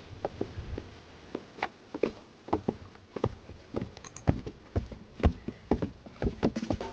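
Footsteps on a trail: a run of uneven taps and knocks, about two a second.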